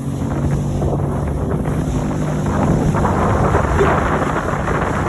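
Jet ski engine running with a steady hum under heavy wind noise on the microphone; the rush of wind and water grows louder about three seconds in.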